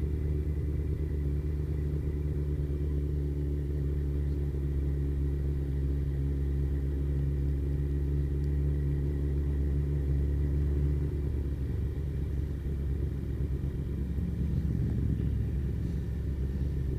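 Kawasaki ZZR1400's inline-four engine running steadily on the move, heard from the bike. Its note changes and becomes less even about eleven seconds in.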